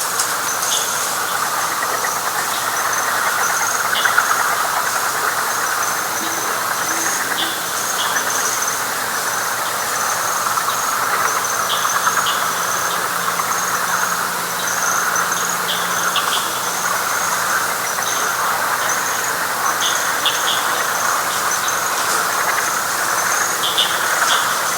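Night chorus of frogs in wet pine flatwoods: a dense, steady chorus with a high pulsing trill running over it and scattered short chirps.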